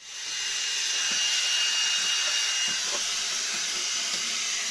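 Dirt Devil Reach Max Plus cordless stick vacuum switched on, its motor coming up to speed within a fraction of a second and then running steadily with a loud airy hiss. A thin whine rides on it and stops about three seconds in.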